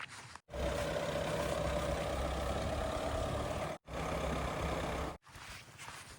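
A heavy diesel vehicle engine running steadily: a low engine hum with a steady mid-pitched whine over it. It starts and stops abruptly and drops out for an instant about three and a half seconds in.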